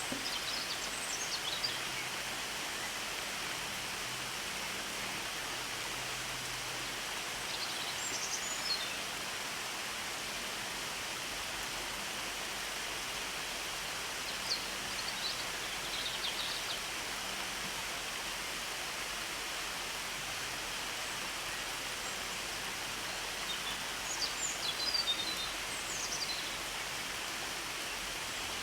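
Steady rain falling, an even hiss. Over it come a few short groups of high chirps from small birds, about a second in, around eight seconds, around fifteen seconds and in a longer run near the end.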